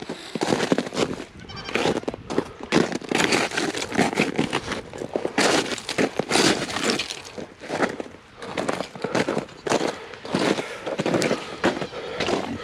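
Footsteps crunching through snow with a frozen top crust, in a quick irregular series of short crunches, with goats bleating.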